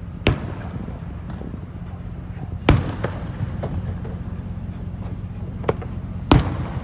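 Fireworks bursting with sharp bangs a couple of seconds apart. The loudest come about two and a half seconds in and near the end, over a steady low hum.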